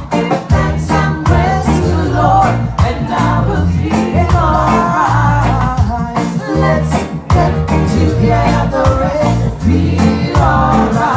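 Live reggae band playing, with a steady bass line, offbeat rhythm chops and a sung or lead melody over them.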